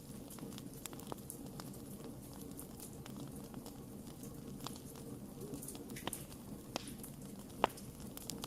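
Wood fire burning with a steady low rush and scattered sharp crackles and pops, the loudest snap near the end.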